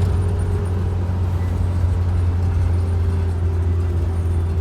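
An engine running steadily, a loud deep drone with a faint steady hum above it.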